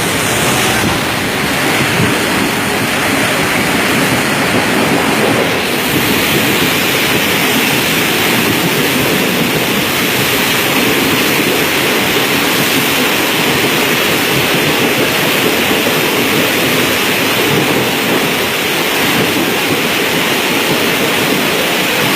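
Steady, loud rushing of water, with a train running along flooded rails.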